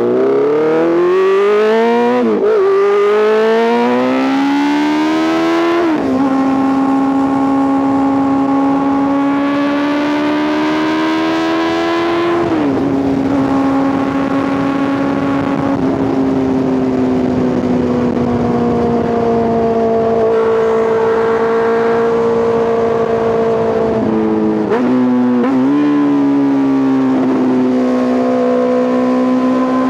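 Honda CBR650R's inline-four engine through an Arrow Race Pro titanium full exhaust, under way. It accelerates with a rising pitch that drops sharply at each upshift, three times in the first half. It then settles into a steady cruise, and a short dip with quick pitch jumps comes near the end before it steadies again.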